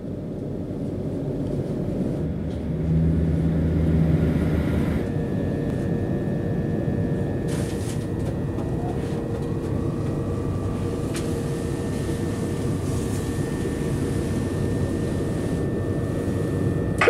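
Passenger train pulling out of a station, heard from inside the carriage: a steady rumble that grows louder over the first few seconds, with a low hum joined about five seconds in by a steady higher whine as it gathers speed.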